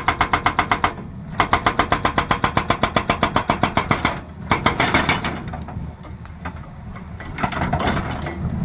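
Excavator-mounted hydraulic breaker hammering in rapid, even blows, about seven a second. The blows break off briefly about a second in and again after about four seconds, then stop, leaving the excavator's diesel engine running.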